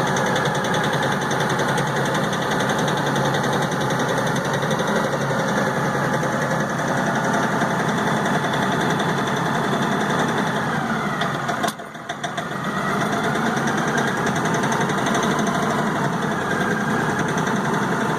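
LS XR4155 tractor's diesel engine idling roughly and missing on one cylinder, its speed shifting on its own with the throttle all the way down. About twelve seconds in, the sound briefly drops away sharply and then picks back up.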